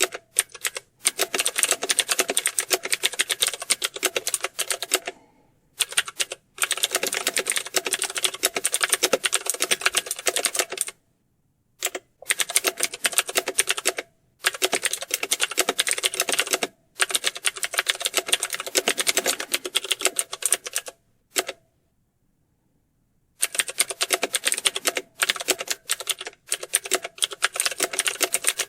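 Fast, continuous typing on a computer keyboard, a dense run of key clicks that comes in stretches of several seconds. Several short pauses break it, with a longer pause of about two seconds about three-quarters of the way through.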